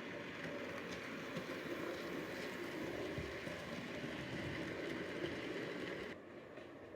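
Model train running along the track, a steady rolling rumble with faint clicks of the wheels over rail joints. The sound drops suddenly and becomes quieter about six seconds in.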